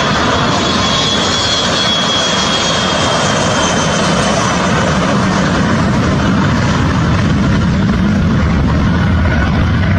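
Private jet's engines running: a loud, steady rush with a high whine that sinks slightly in pitch over the first few seconds.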